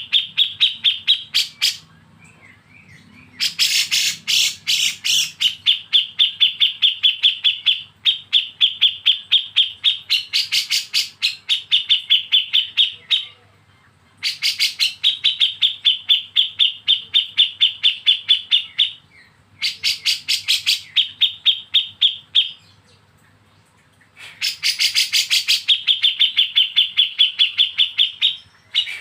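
Songbird giving a harsh, rapid rattling call of the kind called besetan, a fast string of pulses about ten a second. It comes in phrases of two to five seconds separated by short pauses.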